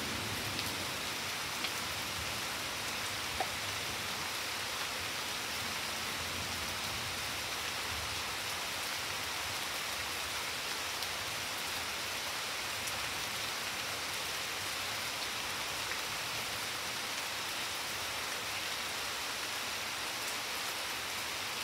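Steady rain falling on garden leaves, lawn and a stone patio, an even hiss with a few single drops ticking out louder here and there.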